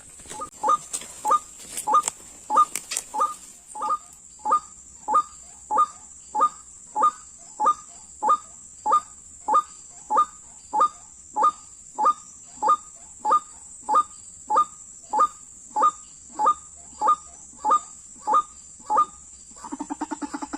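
White-breasted waterhen (ruak-ruak) calling: a loud, harsh note repeated very evenly, about one and a half calls a second. A few sharp clicks come in the first seconds, and about a second before the end a faster, lower pulsing call takes over.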